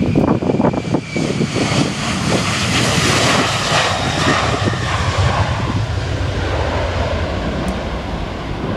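Boeing 737-700's CFM56 turbofan engines at takeoff power during the takeoff run: a loud, steady rush of engine and air noise that swells over the first few seconds, with a low rumble underneath. Irregular thumps in the first second or so are the wheels rolling over the runway.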